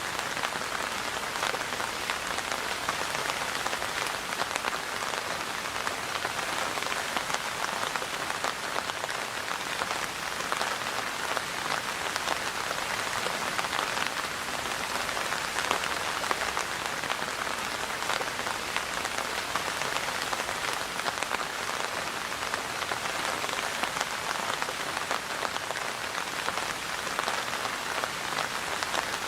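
Steady rain falling and pattering on a surface, a dense even hiss of many drops with small ticks of individual drops.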